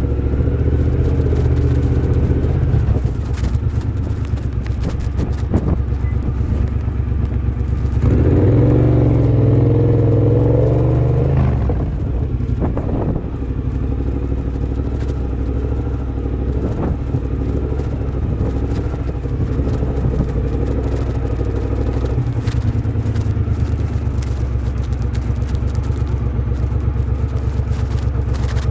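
2023 Triumph Bobber's 1200 cc parallel-twin engine running through a de-catted X-pipe and Motone shorty exhaust while riding. About eight seconds in the throttle is opened harder and the exhaust gets louder for a few seconds, then it backs off and runs steadily at a lower level.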